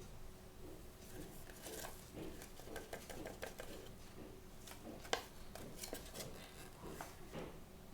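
Hands handling and opening small toy packaging: light crinkling, rustling and small clicks, with one sharp click about five seconds in.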